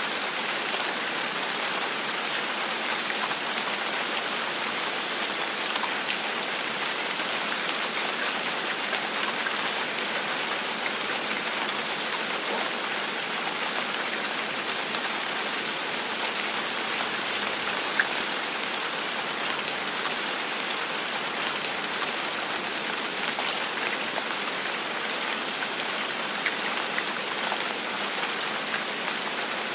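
Steady gentle rain falling on a surface, a constant hiss with scattered individual drop ticks, one slightly sharper tick about two-thirds of the way through.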